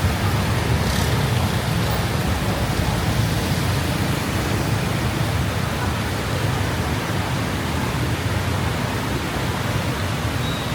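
Steady rushing noise of heavy rain and wind on the camera microphone from a moving motorbike, with a strong low rumble underneath.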